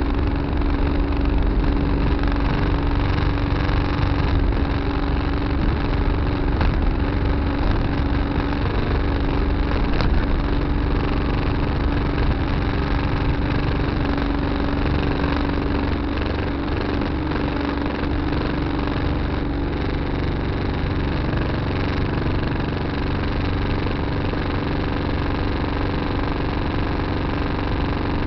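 Tractor engine running steadily at an even speed, heard from inside the cab.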